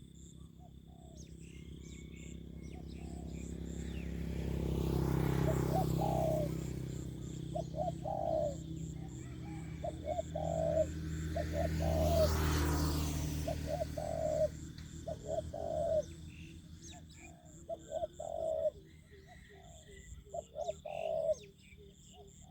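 Spotted doves cooing in repeated short phrases. Twice a rushing rumble swells and fades beneath them, and a steady high insect whine runs behind.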